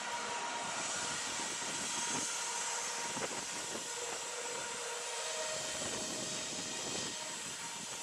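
Passenger train running: a steady rushing noise with a faint whine and a few light knocks.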